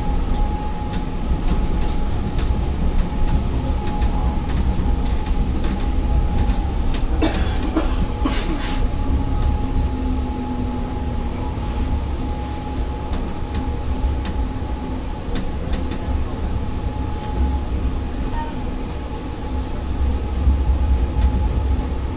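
ŁKA 36WEd electric multiple unit running along the line, heard from inside: a steady low rumble with a constant mid-pitched whine, and a few knocks about seven to nine seconds in.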